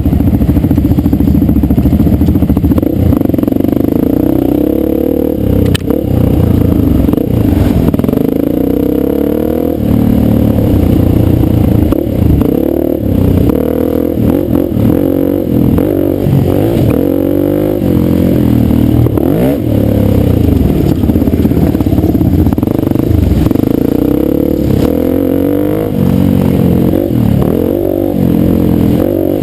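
Dirt bike engine running under way, its pitch repeatedly rising and falling as the throttle is opened and closed over the trail.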